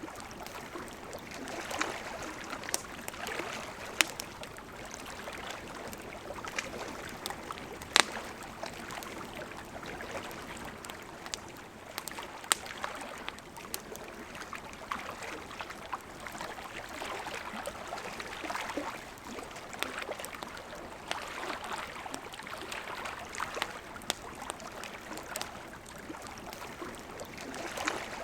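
River water flowing steadily with gentle swells, over which a campfire crackles with sharp pops every few seconds, the loudest about eight seconds in.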